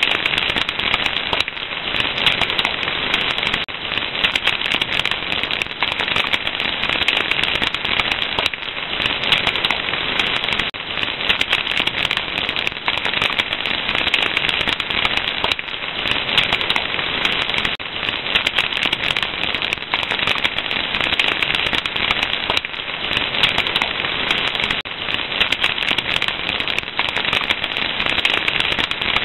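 Fire crackling steadily: a dense run of small pops and snaps over a constant hiss.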